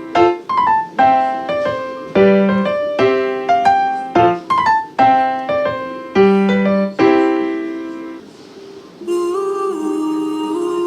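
Background piano music: struck notes and chords that ring and decay, settling about eight seconds in, before a softer passage of held notes begins about a second later.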